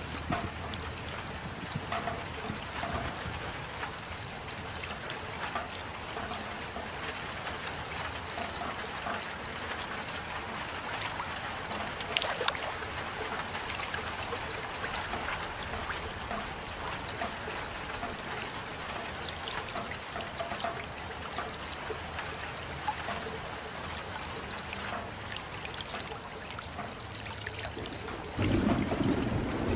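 Steady rain with many small drop ticks. A louder low rumbling sound comes in near the end.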